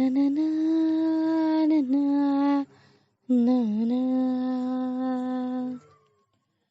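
A solo voice humming or singing two long held notes of a slow worship song, with a short break between them and a pause near the end.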